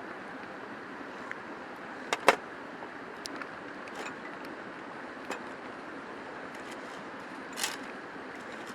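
Steady rushing of a river close by, with a few scattered clicks and knocks over it, the loudest a sharp double knock about two seconds in.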